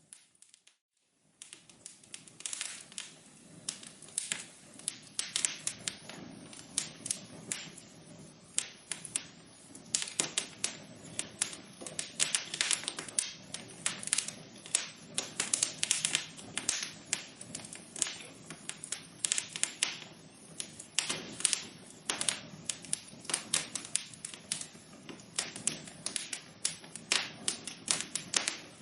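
Wood fire burning in a fireplace, with dense, irregular crackles and pops over a low hiss. The sound cuts out briefly about a second in, then the crackling resumes.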